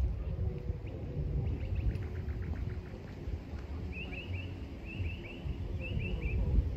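A small bird chirping in three short bursts of three or four quick notes in the second half, over a low steady rumble. A quick run of faint ticks comes about two seconds in.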